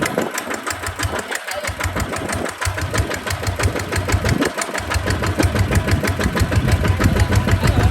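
Kubota tractor's diesel engine running with a steady, rapid beat; its low rumble thins briefly in the first few seconds and comes back fuller from about five seconds in.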